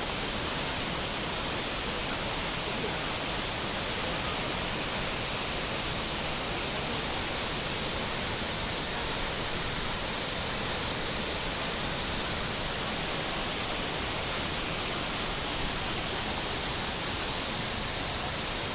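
Steady rush of water from a waterfall, an even noise that does not change.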